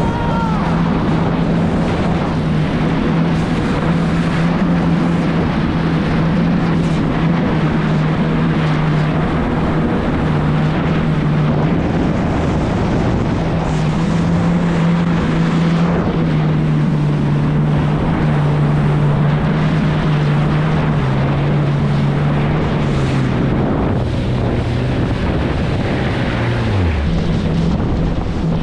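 A 2018 Yamaha FX HO jet ski's four-stroke engine runs at speed under heavy wind on the microphone and rushing water. The engine note wanders with the throttle, drops away sharply near the end as the throttle comes off, then picks up again.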